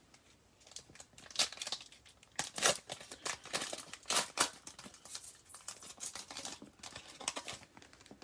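A trading-card pack's wrapper being torn open and crinkled by hand, irregular ripping and crackling that starts about a second in, is busiest in the middle and thins out near the end.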